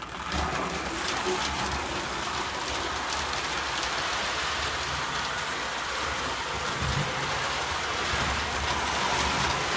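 Prewar Lionel 1666 steam locomotive running on three-rail tinplate track: a steady, even rattle of its motor and wheels on the rails, starting suddenly as the power comes on.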